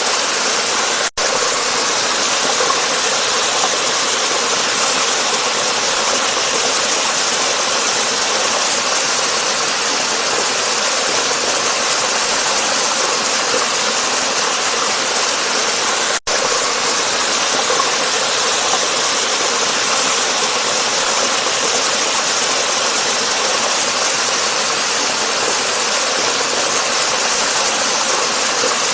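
Waterfall: a steady, loud rush of falling water. It cuts out for an instant twice, about a second in and again around sixteen seconds in.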